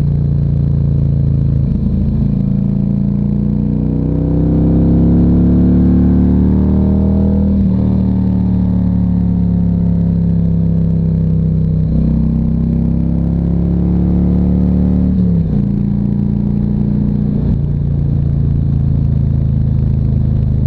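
Harley-Davidson Ultra Classic Electra Glide's V-twin engine under way on a ride, its revs climbing and then dropping sharply three times, about a third, halfway and three quarters of the way in, before holding steady.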